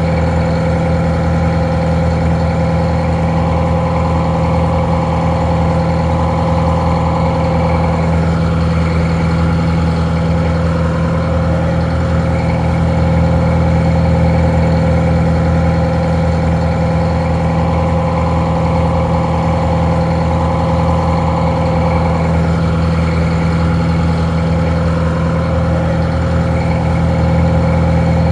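Detroit Diesel 4-71 two-stroke inline four-cylinder diesel idling steadily, a deep even running that sounds a little muffled.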